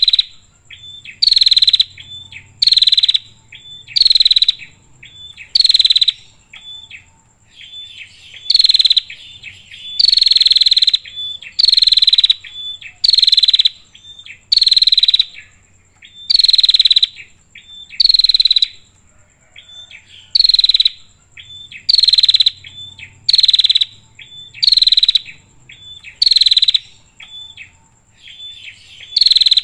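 Female prinia (prenjak) calling: a loud call repeated about every one and a half seconds, each sweeping down in pitch, with softer short notes in between.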